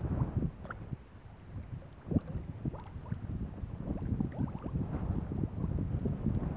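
Water bubbling and gurgling in quick, irregular little blips, with wind rumbling on the microphone.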